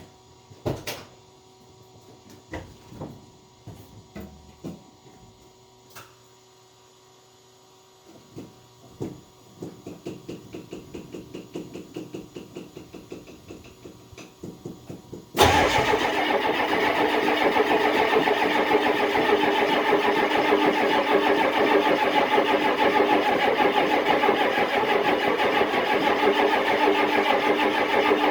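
Old truck engine being cold-started: a few knocks and clicks, then the starter cranks it over in even pulses for about six seconds. About fifteen seconds in it suddenly catches and runs loud and steady.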